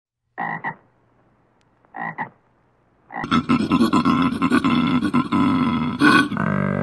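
Koala bellowing: two short grunts, then from about three seconds in a long, continuous call made of rapid pulses.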